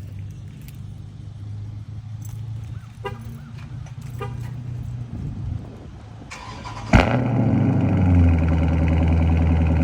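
Cold start of a 2022 Dodge Charger Scat Pack's 6.4-litre HEMI V8 with its mid mufflers deleted. The starter cranks briefly about six seconds in, then the engine catches with a sharp loud bark and settles into a loud, steady, high cold-start idle that swells once just after firing.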